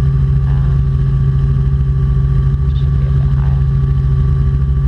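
Robinson R44 Clipper II helicopter in steady cruise: a constant drone from its six-cylinder piston engine and rotors, with a fast low pulsing from the rotor blades and a steady whine on top.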